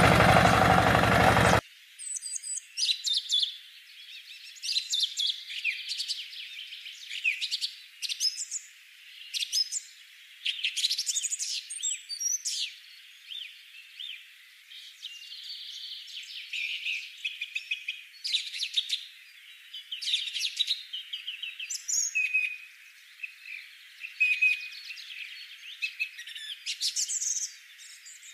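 Small birds chirping and twittering in quick runs of short rising and falling calls, with only the high notes present. A loud noise cuts off abruptly just before the chirping begins.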